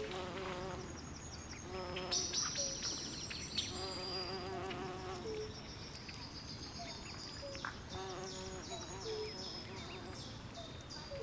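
Night swamp chorus: frogs give warbling trills in bursts every couple of seconds, with short gliding croaks between them. High chirping calls repeat quickly, growing denser near the end, over a steady low hiss.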